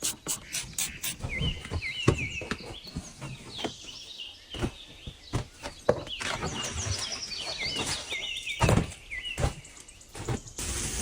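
Small birds chirping in groups of short, quick falling notes, among scattered clicks and knocks, with one louder knock near the end.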